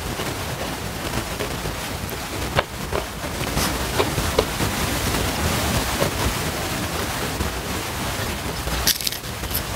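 A person chewing food close to a sensitive microphone: wet mouth sounds over a steady hiss, with scattered sharp crunches as raw cucumber and petai are bitten and chewed.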